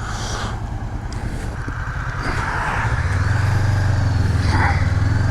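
Honda CB500X parallel-twin engine pulling the motorcycle along the road, with wind rushing over the microphone. The sound grows steadily louder, and the engine's low hum firms up about three seconds in as the bike picks up speed.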